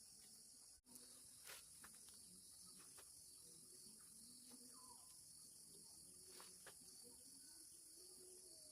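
Faint, steady high-pitched chirring of insects such as crickets, with a few light clicks and taps scattered through.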